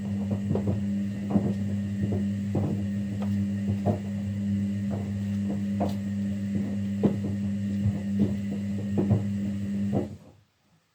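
Kunft washing machine running on a quick wash: a steady electrical hum with irregular knocks and clunks over it, stopping abruptly about ten seconds in.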